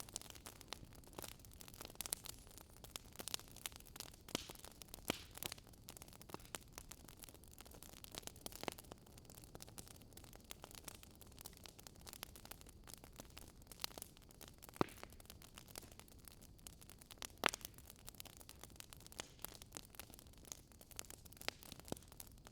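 Wood fire crackling: irregular sharp pops and snaps over a low hiss, with a couple of louder pops partway through.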